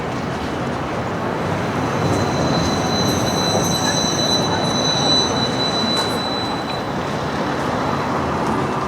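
Busy city street noise with a high, steady metallic squeal held for about five seconds in the middle.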